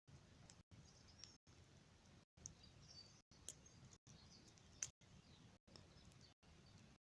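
Near silence with faint birdsong: scattered short high chirps, and a few sharp clicks, the loudest about five seconds in.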